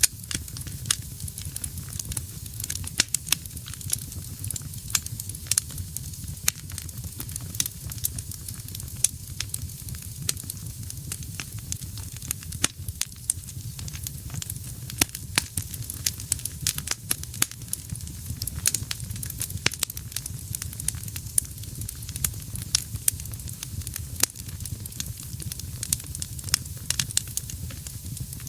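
Wood fire burning in a fireplace: dense, irregular crackles and snaps over a low steady rumble of the flames.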